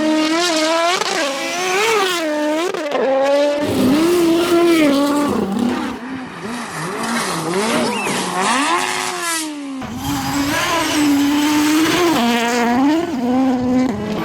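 Rally car engines revving hard. The pitch swings rapidly up and down through throttle lifts and gear changes, with abrupt switches between cars where clips are cut together.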